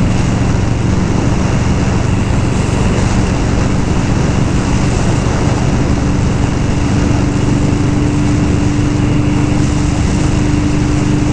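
Indian Scout V-twin motorcycle engine running steadily while riding, under a steady rush of wind noise on the microphone. A higher steady hum joins the engine tone about four seconds in.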